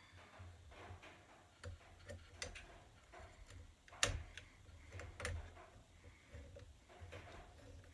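Scattered light clicks and taps of small parts and tools being handled during hands-on assembly of a 3D printer kit, with a sharper click about four seconds in and another just after five seconds, over a low steady hum.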